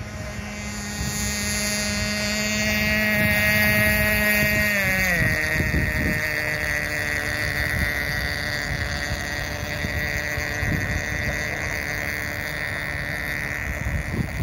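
Nitro RC boat's small glow-fuel engine running with a steady high buzz; about five seconds in its pitch drops quickly as the throttle comes off, then it holds steady at the lower pitch.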